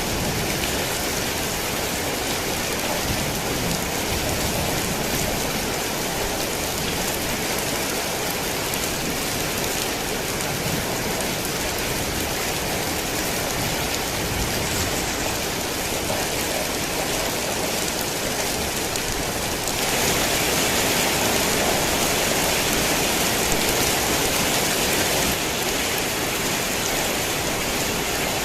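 Heavy rain falling steadily, an even rushing hiss of countless drops on surfaces. It grows a little louder and brighter about two-thirds of the way in for several seconds, then settles back.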